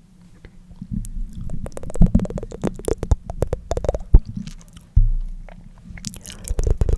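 Close-miked tongue fluttering: wet mouth clicks and flaps in quick runs. They are scattered at first, with a low thud about five seconds in, then become a dense rapid flutter near the end.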